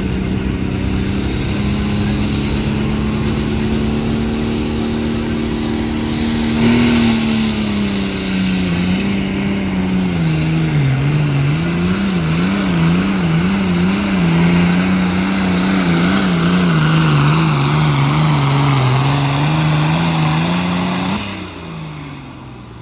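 Pulling vehicle's engine at full throttle dragging the weight-transfer sled: a steady high engine note, a sudden jolt about a third of the way in, then the engine speed sags and rises over and over as it lugs under the growing load, until the driver backs off the throttle near the end.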